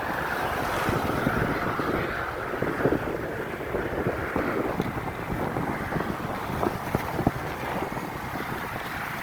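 Wind rushing over the microphone while skiing downhill, with the hiss and scattered scrapes of skis sliding through powder snow.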